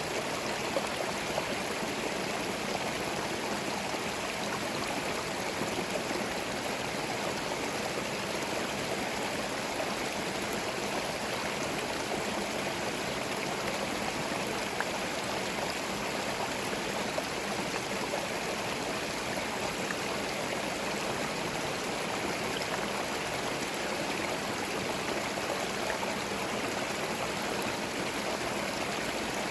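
A small forest stream flowing and gurgling steadily over stones, an even rush of water with small splashes and no birds.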